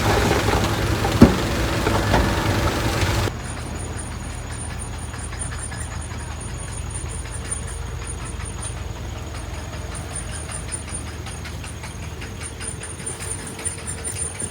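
Heavy diesel earthmoving machinery running, with one loud clank a little over a second in. About three seconds in, the sound drops abruptly to a quieter, steady engine drone.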